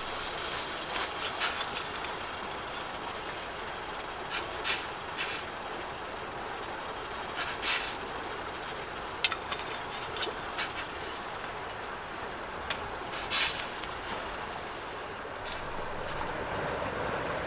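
Wood fire crackling: irregular sharp pops over a steady hiss.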